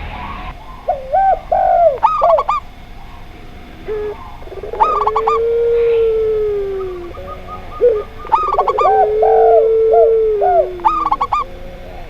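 Zebra dove, spotted dove and puter pelung dove cooing together. Two long low coos, each held about two seconds and sagging in pitch at the end, overlap with short clusters of quick, higher coo notes that come back every few seconds.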